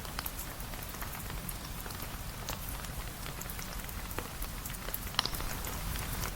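Steady rain falling on a surface, with scattered sharp drips and ticks throughout and one louder click about five seconds in.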